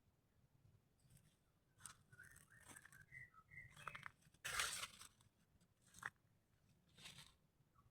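Faint outdoor ambience with scattered soft clicks and a few short high chirps. A brief rustling burst a little past halfway is the loudest sound.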